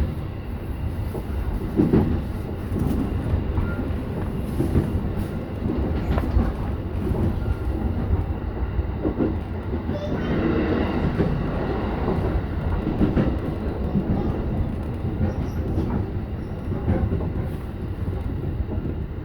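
JR E233-7000 series electric train running on the track, with a steady low rumble and irregular knocks as the wheels pass over rail joints.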